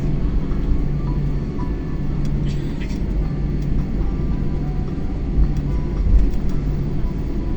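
Steady low rumble and hum inside an airliner cabin during taxi: the jet engines turning at low thrust and the airframe rolling over the taxiway.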